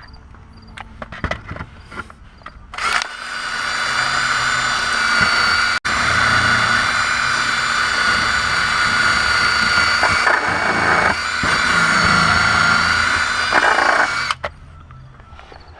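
A motor-driven tool runs with a steady high whine for about eleven seconds. It starts about three seconds in, cuts out for an instant near six seconds, and stops shortly before the end. Light clicks and knocks of hand work come before and after it.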